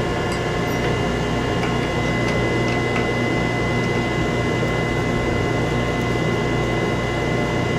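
Wood lathe running steadily: an even motor hum with a faint high whine held on one pitch.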